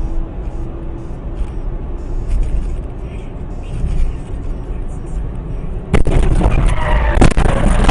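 Car road and engine rumble recorded by a dash cam. About six seconds in it switches abruptly to a louder, harsher stretch of road noise with clattering knocks.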